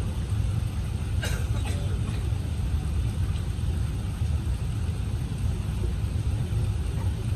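Steady low rumble inside the cabin of an Airbus A380 on the ground before take-off, with a brief click about a second in and a fainter one just after.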